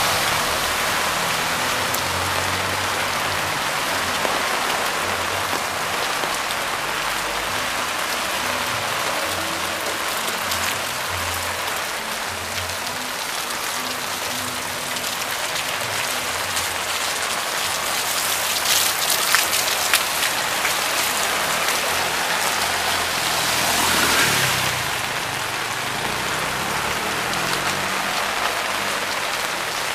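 Heavy rain pouring down on a flooded street as a steady hiss, with a few sharp crackles about two-thirds in and a brief louder swell of rushing water soon after.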